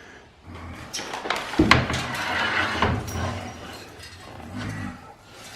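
Metal clinks and knocks from hands-on work: a few sharp strikes, the loudest about a second and a half in, with rustling handling noise between them.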